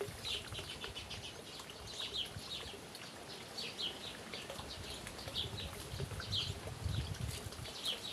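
Small birds chirping: short, falling calls repeated about once or twice a second over a steady background hiss, with a brief low rumble near the end.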